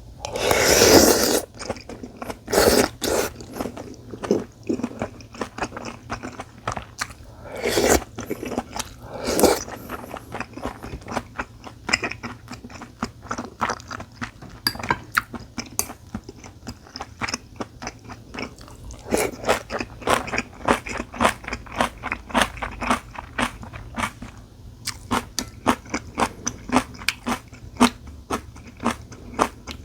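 A person chewing and biting food close to the microphone, a steady stream of small wet clicks and crunches, with a few longer, louder noisy bursts about a second in and again around eight and nine and a half seconds.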